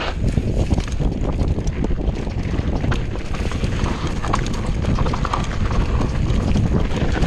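Mountain bike clattering and rattling over a rough trail, with many quick knocks from the chain and frame, under a heavy rumble of wind buffeting the microphone.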